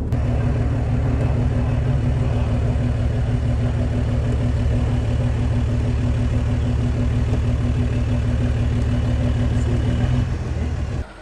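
A vehicle engine running at a steady speed: a low, even drone with a fine rapid pulse. It sags a little about ten seconds in, then cuts off.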